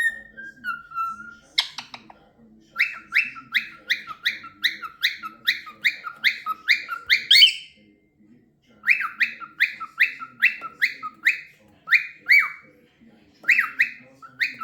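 Cockatiel whistling runs of short, sharp, repeated notes, about three a second, each run lasting a few seconds with brief pauses between. A single sharp click sounds just before two seconds in.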